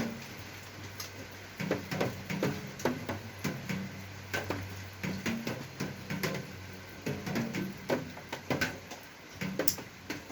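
Irregular light clicks and knocks, several a second, as of small parts and tools being handled, over a low steady hum.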